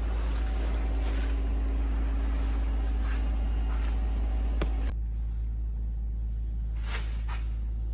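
A steady low machine drone with a faint hum in it. About five seconds in it changes abruptly: the hum drops away and the sound thins out.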